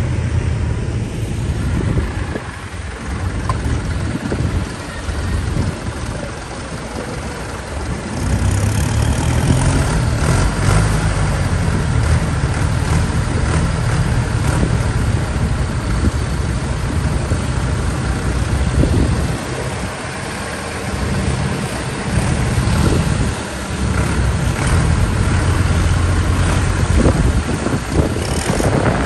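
Vintage tractor engines running, a deep steady engine sound that gets louder about eight seconds in, with brief dips near twenty and twenty-three seconds.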